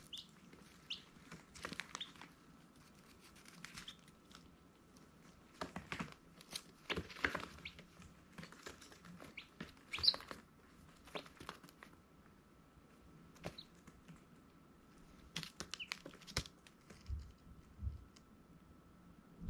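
Baby chicks giving short, scattered high peeps among scratchy rustling and clicking.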